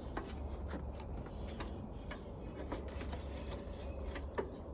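Scrap parts from a washing machine being handled and set down: a scattering of small clicks and light rattles, over a steady low hum.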